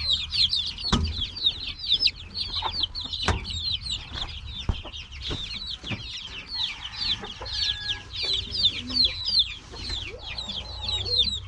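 Many native chicks peeping without pause, short falling chirps several a second, with a few sharp knocks about one, three, five and six seconds in.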